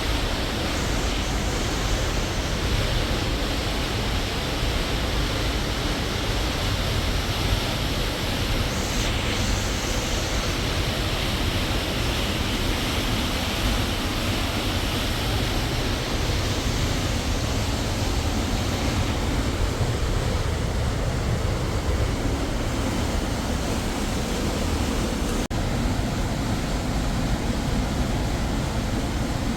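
Steady, unbroken rushing noise.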